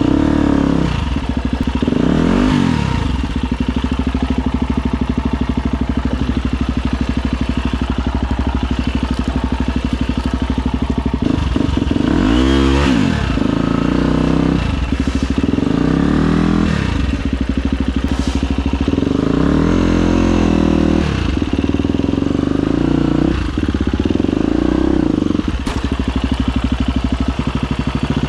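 Husqvarna FE250 single-cylinder four-stroke dirt-bike engine running hard under load, its pitch rising and falling with repeated throttle blips.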